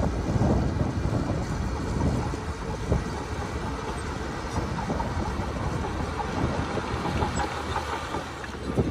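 Heavy diesel earthmoving machinery, a bulldozer or dump truck, running at work: a low steady rumble with rattling and clanking through it.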